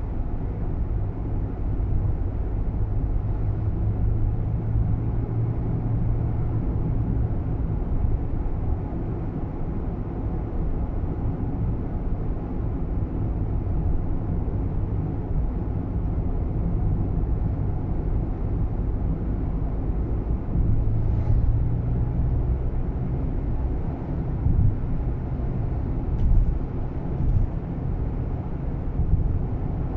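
Nissan Roox heard from inside the cabin on the move: a steady low road-and-engine rumble, with a few faint clicks in the second half, the clattering interior rattle from around the dashboard and meter.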